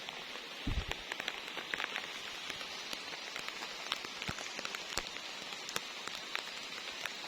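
Steady rain falling, with many separate drops striking sharply close by, and a single low thud just under a second in.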